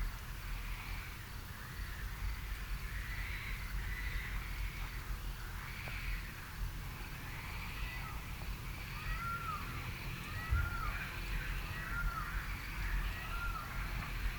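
Birds calling: short arched calls repeating about once a second, joined from about nine seconds in by a second, lower series of similar calls, over a low steady rumble.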